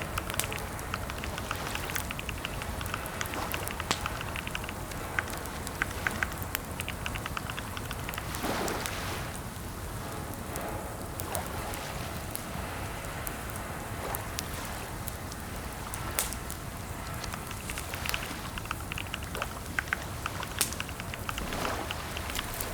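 Computer keyboard typing: irregular keystroke clicks, some in quick runs and some on their own, over a steady background hiss.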